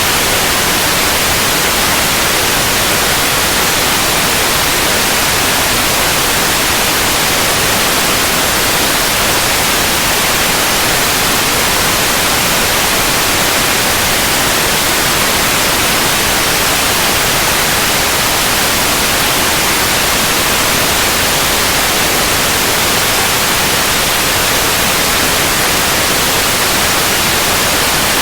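Steady, loud white noise: an even, unchanging hiss with no rhythm or events.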